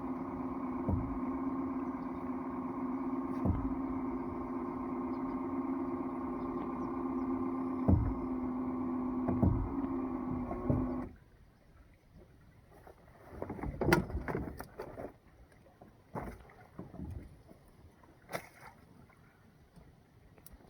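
A small boat's motor runs steadily with occasional thumps, then cuts off suddenly about eleven seconds in. After it stops come scattered knocks and bumps.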